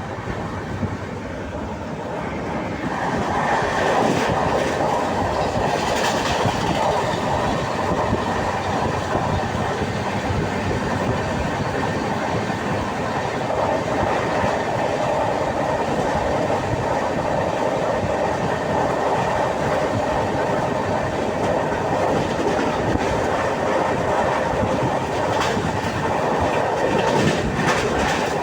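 Passenger train running at speed, heard from inside the coach: a steady rumble of wheels on the rails, growing louder about three seconds in, with a few sharp clacks.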